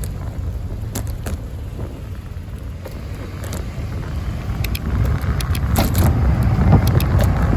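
Street traffic heard from a moving bicycle: a car passing, growing louder over the last few seconds, over steady low wind and road rumble. Sharp rattling clicks come through now and then from the bike and its makeshift phone mount.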